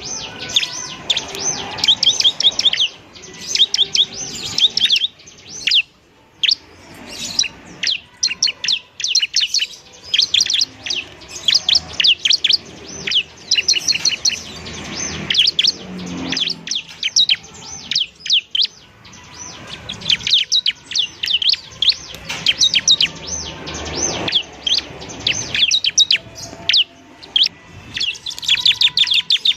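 Bar-winged prinia (ciblek) singing: rapid trains of sharp, high chirps in bursts of a second or two, separated by short breaks.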